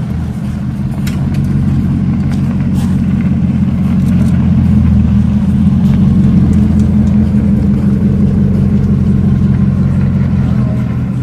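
Bugatti Bolide's 8.0-litre W16 engine running at low revs as the car creeps forward at walking pace, a steady deep drone that swells a little in the first few seconds and then holds.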